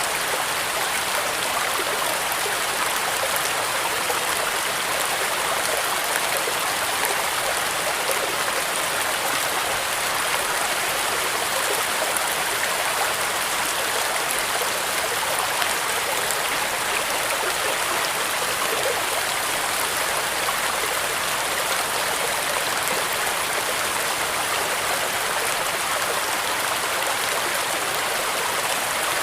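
Steady rain, an even dense hiss with fine drop ticks, unchanging throughout.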